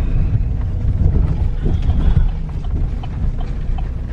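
Steady low rumble of a vehicle driving on a rain-soaked road, heard from inside the cabin, with scattered faint ticks over it.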